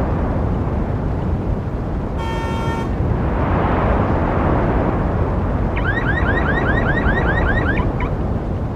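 Street traffic rumbling steadily. A short car horn toot sounds about two seconds in. Near the end come about two seconds of rapid rising electronic chirps, about five a second, from a car alarm.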